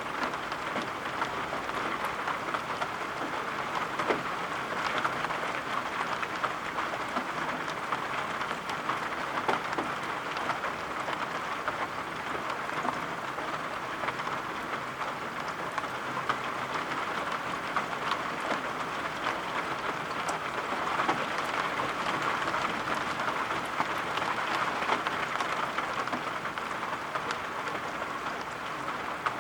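Steady rain falling, an even hiss made up of many small drop ticks, with no let-up.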